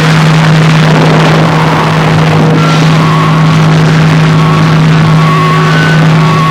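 Harsh noise music: a loud, dense wall of distorted noise over a steady low drone, with a few faint high tones wavering in and out.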